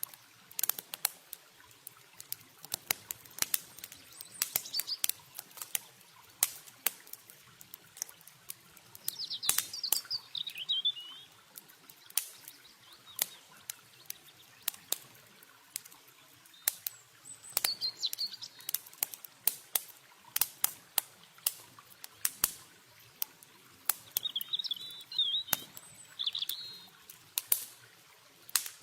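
Campfire crackling, with irregular sharp pops and snaps throughout. Short bursts of bird chirping come several times: about ten seconds in, near eighteen seconds, and twice near the end. A faint wash of flowing water lies underneath.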